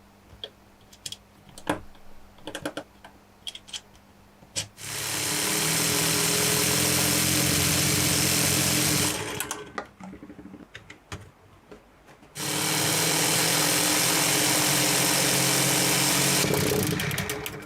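Lego Technic six-cylinder radial engine model spun at high speed by a motor: a steady, even mechanical whir of the plastic pistons, rods and crank, running twice for about four seconds each, with a pause between. Light clicks of the plastic parts come before and between the runs.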